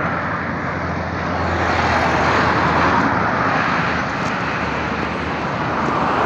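Road traffic passing close by: a steady rush of tyres and engines that swells as vehicles go past, about two to three seconds in and again near the end.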